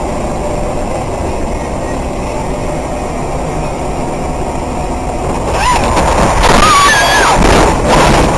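Steady low rumble of a vehicle on the road, picked up by a dash cam. About five and a half seconds in, the sound turns louder and harsher, with short wavering high-pitched squeals.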